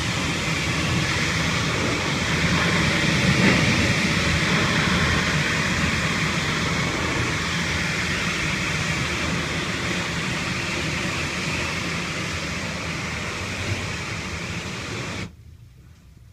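Pressure washer blasting an air-conditioning condenser coil clean: a loud, steady rush of spray over the machine's running. It cuts off suddenly near the end.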